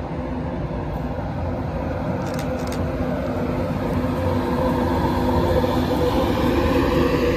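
An LNER Class 91 electric locomotive hauling an InterCity 225 train passes close by: a steady rumble of wheels on rail with a humming whine of several tones that grows louder as it goes.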